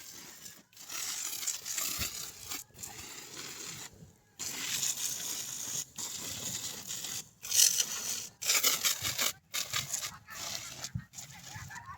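Hand-held fire extinguisher being discharged onto a fire, its spray hissing in repeated spurts of a second or two with brief breaks between them.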